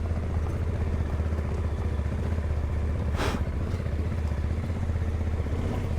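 Yamaha Ténéré 700's parallel-twin motorcycle engine running steadily on a forest trail, a low, even drone with no revving. A brief hiss cuts in about three seconds in.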